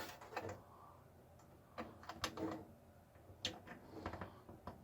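Faint scattered clicks and rustles of small plastic connector plugs and their wires being handled and pushed onto a PC motherboard's pin headers.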